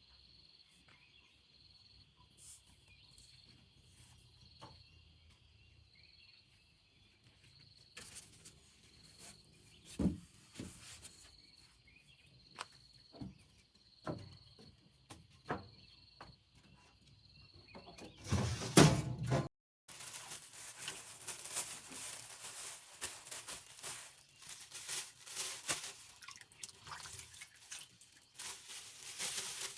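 Night insects chirping in a high, evenly pulsing rhythm, with scattered clicks and knocks joining partway through. After a loud noise and a sudden cut about two-thirds in, a dense crackling, spattering noise takes over.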